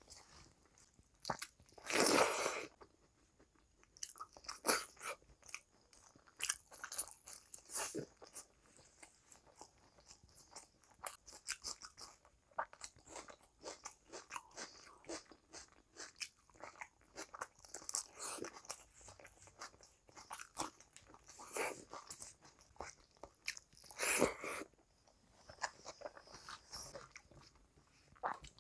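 Close-miked eating of rice and egg curry by hand: a steady run of wet chewing, lip smacks and small crunches. Two louder, longer noises stand out, one about two seconds in and one a few seconds before the end.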